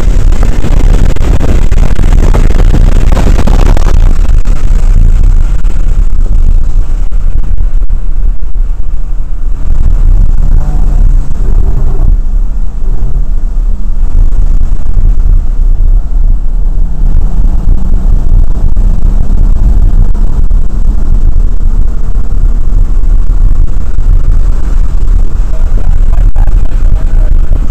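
Porsche 997 Turbo's twin-turbo flat-six running at track speed, heard from inside the cabin as a loud, overloaded low rumble. A brighter hiss fills the first four seconds, and a faint engine tone rises and falls now and then as the car accelerates and slows through the corners.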